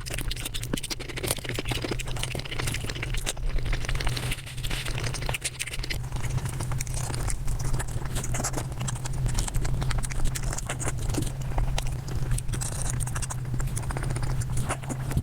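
Eating sounds played at five times speed: a dense, rapid run of chewing, mouth clicks and crackles, over a steady low hum.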